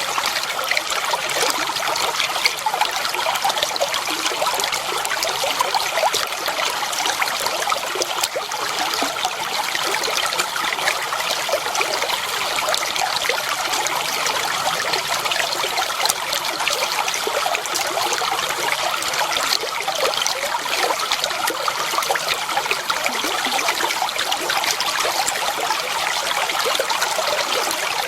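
Shallow water flowing and trickling steadily, a continuous bubbling splash with no pauses.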